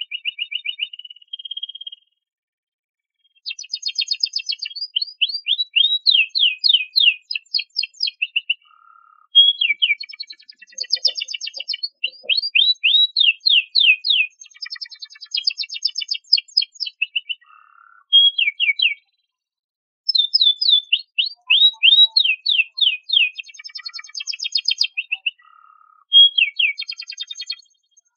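Domestic canary singing long phrases of rapid trills and rolls of quickly repeated notes, with short pauses between phrases.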